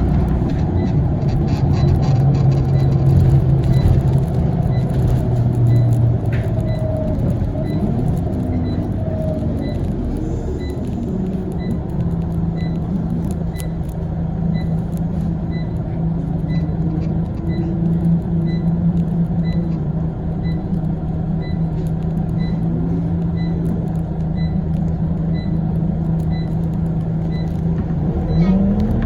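Scania CL94UB OmniLink city bus heard from inside, its diesel engine and ZF automatic gearbox running with a steady hum that changes pitch as the bus slows and moves off again. A light regular tick repeats about every half-second through the middle, and the pitch rises near the end as the bus pulls away.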